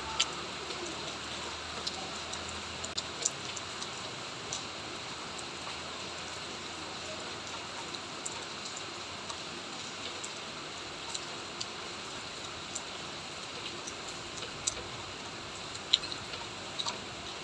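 Steady rain falling, with scattered sharp ticks of single drops landing close by, one louder tick near the end.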